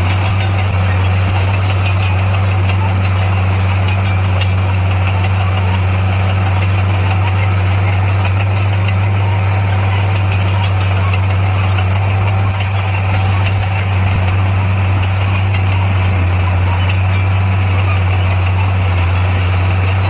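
Heavy diesel engine of construction machinery running steadily with a constant low drone, with a brief slight dip about twelve seconds in.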